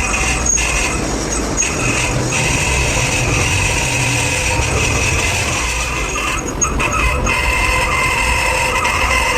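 Heavy metalworking machinery running steadily: a constant high whine over a low hum, with no change in pace.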